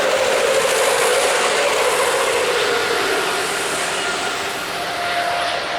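Jet airliner passing close by, its engines giving a loud rush with a humming tone that slowly falls in pitch, loudest in the first couple of seconds and then easing off as it moves away.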